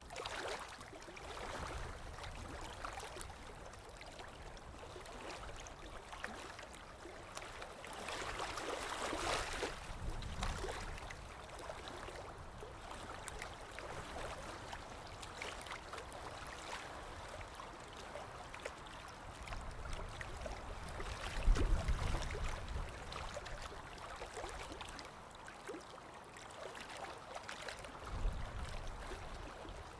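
Ocean surf washing in a continuous hiss that swells and falls a few times, with deep low rumbles during the stronger swells.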